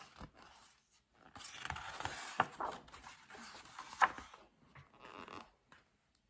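A large glossy picture-book page being turned: a rustle of paper lasting about three seconds with a couple of sharp slaps, then a shorter, softer brush of the hand across the page.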